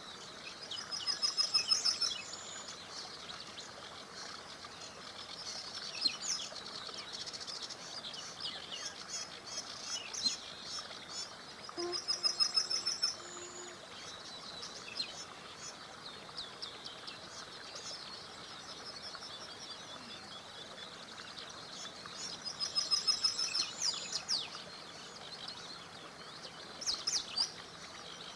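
Songbirds singing, with a loud rapid trilling phrase about one second in, again about twelve seconds in and again about twenty-three seconds in, and scattered shorter chirps between, over the steady soft rush of a small river.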